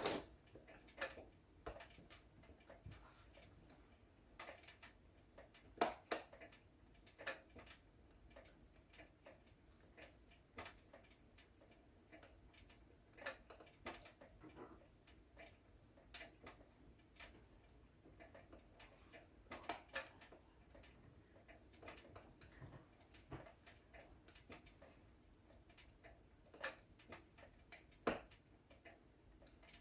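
Wood fire burning in a fireplace, crackling with soft, irregular snaps and pops. Sharper pops come at the start, about six seconds in, around twenty seconds, and near the end.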